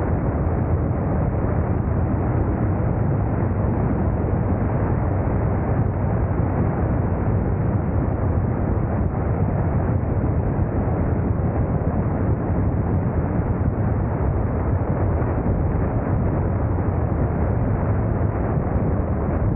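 Steady wind rush and road noise of a motorcycle moving at speed, as picked up by a camera on the bike. It is a constant deep roar with no breaks or changes.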